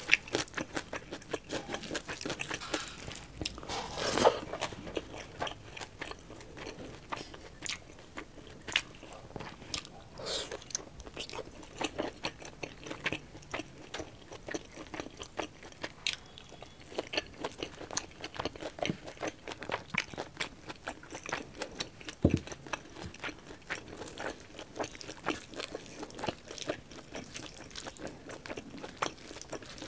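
Close-miked eating sounds: chewing, lip smacks and wet mouth clicks as pork curry and rice are eaten by hand, along with fingers mixing rice on a steel plate. One sharper knock comes about 22 seconds in.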